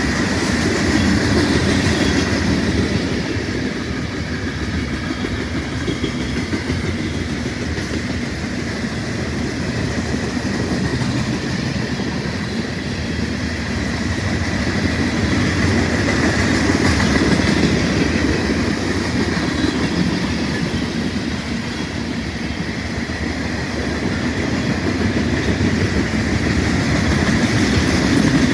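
Freight train cars rolling past, a steady rumble and clatter of wheels on rail, swelling and easing slightly, with a faint steady high squeal running through it.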